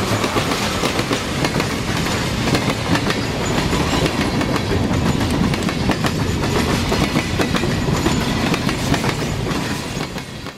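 A train running on track: a steady rumble full of irregular clicking from the wheels on the rails, fading out near the end.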